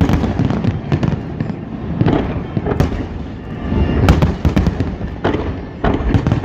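Big aerial fireworks display: a rapid, continuous barrage of shell bursts, many sharp bangs and crackles over a constant deep rumble of overlapping booms.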